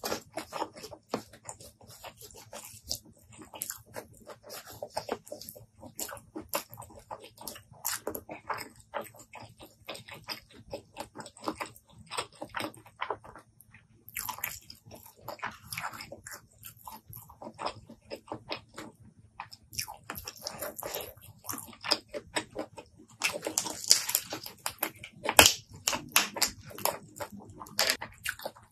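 Close-miked chewing and biting of saucy raw food: wet, sticky mouth smacks and soft crunches in an irregular run of clicks. Near the end it gets louder and busier as the raw shellfish is pulled apart by hand, with squelching and cracking.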